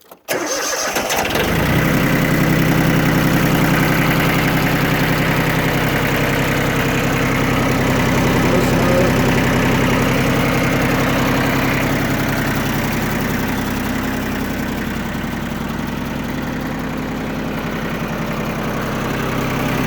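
Yanmar F165D compact tractor's diesel engine starting: it is cranked and catches within about a second, then idles steadily.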